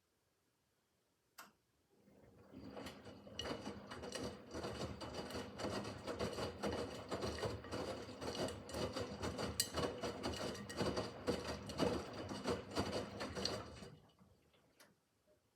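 Miele W5801 WPS front-loading washing machine mid-wash: a click, then the drum turns for about twelve seconds with a steady motor hum and a dense clatter of tumbling laundry, and stops.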